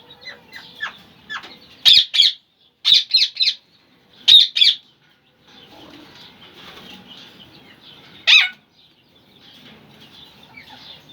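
Pet birds calling: loud, sharp calls in quick groups of two or three, a last single call near the end, over a faint background of continuous chirping.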